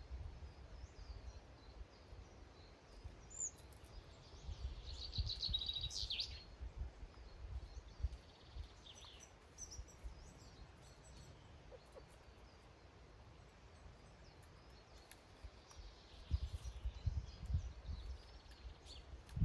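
Small garden birds calling outdoors: scattered high chirps, with a quick run of repeated notes about five seconds in. Low rumbling noise comes at the start and again near the end.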